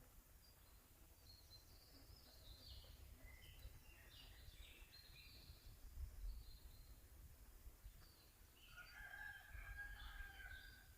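Faint wild birdsong: short chirps and phrases from songbirds, then near the end one drawn-out call of about two seconds, over a low rumble.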